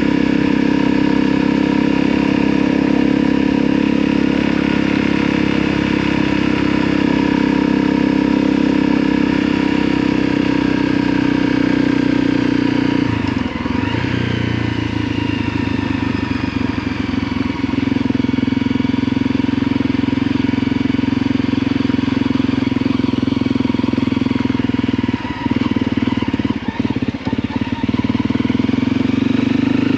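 Motorcycle engine running steadily under way. The engine note shifts about halfway through, and there are a few brief dips near the end.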